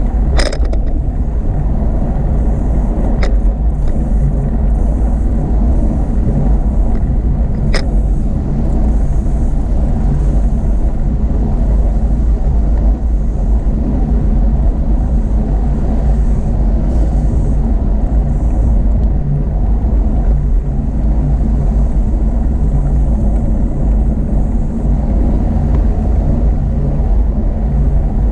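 Steady low rumble heard while riding a bicycle: wind on the camera microphone mixed with motor traffic. A few short sharp clicks stand out, three in the first eight seconds.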